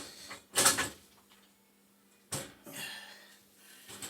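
Three sharp metal clanks and scrapes of a wrench working on gas pipe fittings: one at the start, one just after, and one a little over two seconds in, with a quiet gap before the last.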